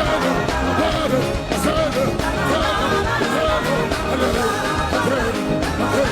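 Live gospel worship music: a band playing with singing voices.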